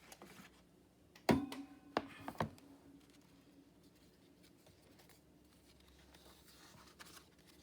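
A few knocks on a tabletop as a journal and craft items are handled and set down, the first and loudest ringing briefly, followed by faint quiet handling.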